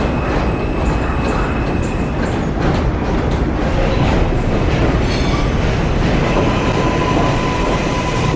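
R143 subway train running on the rails, with a steady rumble and wheels clicking over rail joints. A high whine fades out about two seconds in, and a lower steady whine sets in near the end.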